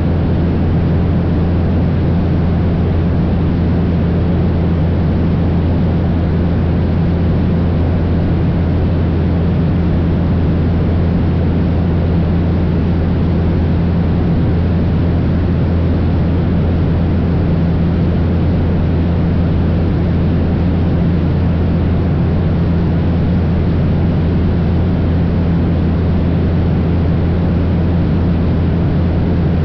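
Cessna 172's piston engine and propeller droning steadily in level flight, with a constant rush of wind noise over it.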